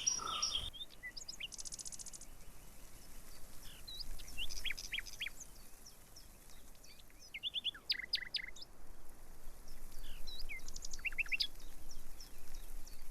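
Several birds calling outdoors: scattered short chirps and quick downward-sweeping whistled notes, with a brief rapid buzzy trill about a second and a half in.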